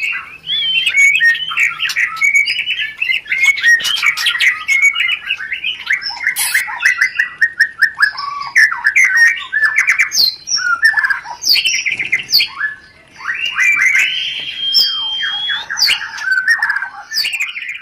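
White-rumped shama (murai batu) giving rapid, dense chattering calls ('rencetan'), mixed with quick repeated note series and the odd drawn-out whistle. These are excited breeding-season calls, played as a lure to bring other shamas into mating condition.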